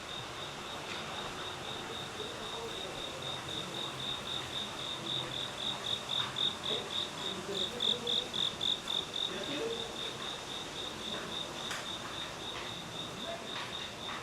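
A cricket chirping in a steady, even rhythm of about four high-pitched pulses a second, louder for a few seconds around the middle.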